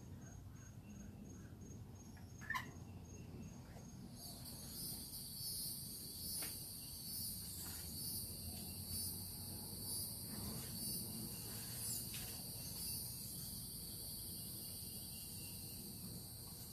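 Insects trilling outdoors: a steady, high-pitched trill starts about four seconds in and swells about once a second, over a low background rumble. A brief sharp chirp sounds about two and a half seconds in.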